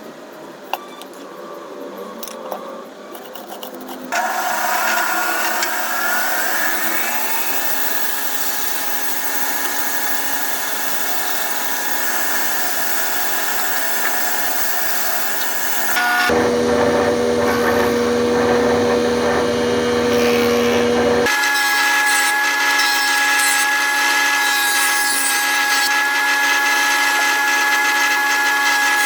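An electric power tool is switched on about four seconds in and spins up with a rising whine, then runs steadily. The sound changes abruptly twice to a different steady motor tone, about halfway through and again a few seconds later.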